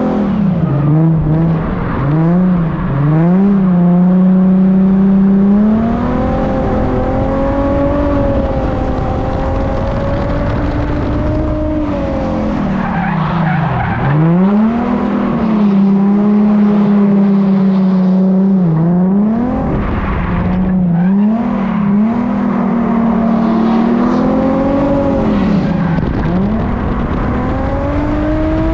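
Nissan 350Z's V6 engine held at high revs while drifting, the revs dipping sharply and climbing back again and again as the throttle is lifted and reapplied, with tyre noise underneath.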